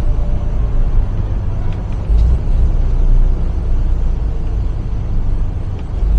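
Semi-truck tractor cruising on a freeway, heard from inside the cab: a steady low rumble of the diesel engine and road noise.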